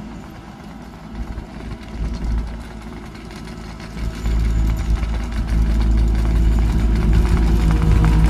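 Engine of heavy asphalt-paving machinery running steadily, growing louder about four seconds in.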